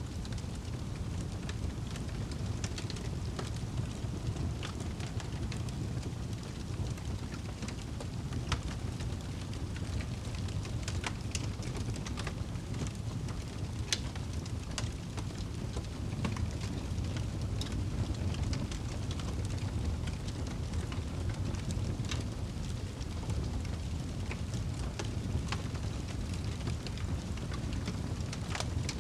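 Fire in a fireplace crackling: scattered sharp pops and snaps over a steady low rumble of the flames, with one louder pop about halfway through.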